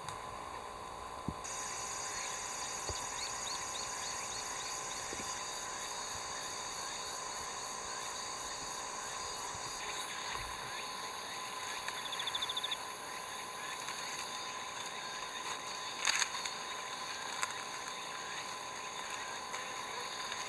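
Insects singing: a steady high chorus with a fast pulsing trill that stops about ten seconds in, a brief trill a couple of seconds later, and a few faint clicks.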